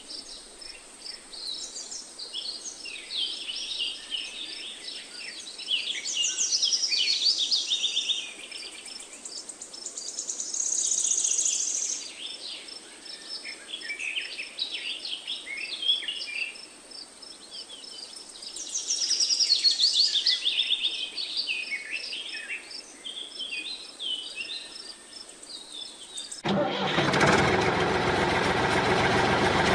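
Several birds singing and chirping in quick, overlapping calls. About 26 seconds in, the birds give way abruptly to the steady running of the mini water pump's small gasoline engine.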